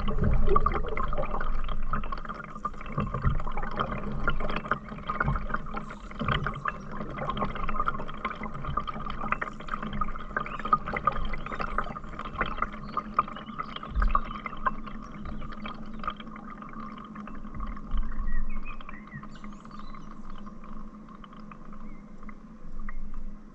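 Water trickling and splashing around a canoe, with a steady run of small drips and splashes and a few low thumps.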